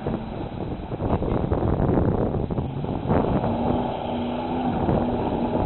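Dodge Dakota 4x4 pickup's engine running loud as the truck drives through a mud hole, with a steady hum coming in about three seconds in.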